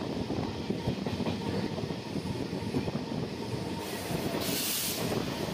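Passenger train running, heard from an open coach door: a steady rumble of wheels on rails. A short loud hiss comes about four and a half seconds in, as an electric freight locomotive passes close alongside on the next track.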